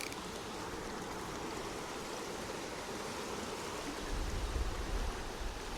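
Stream water running steadily over rocks, with a brief low rumble near the end.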